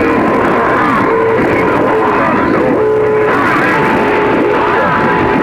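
CB radio receiver audio from a crowded channel during skip: music with guitar carried over the channel, mixed with steady heterodyne whistles and overlapping distant signals, all in narrow radio bandwidth.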